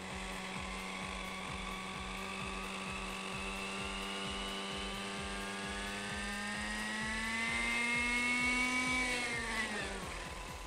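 Two-stroke nitro glow engine of a Kyosho Nexus 30 model helicopter running with a steady whine, climbing in pitch and loudness as it is throttled up past halfway, then winding down quickly near the end.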